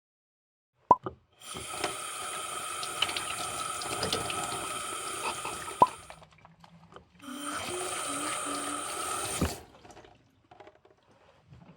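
Water running from a tap into a sink in two spells, about four seconds and then about two seconds, with a sharp click before the first and another near its end.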